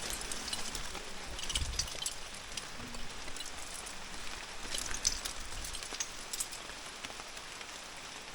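Steady rain falling, with scattered light ticks of drops striking close by and a brief low rumble about one and a half seconds in.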